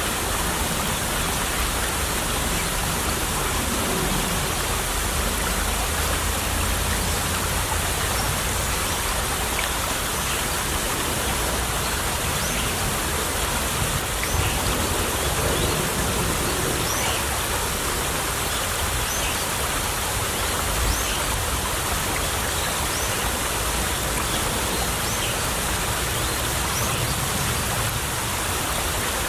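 Small stream babbling and trickling steadily, an even, continuous rush of running water.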